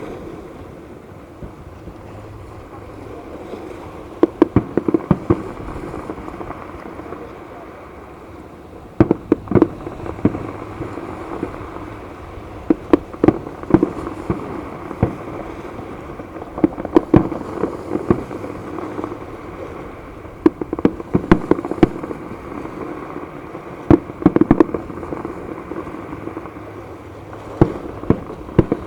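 Fireworks bursting: quick clusters of sharp bangs every few seconds, over a steady background hiss.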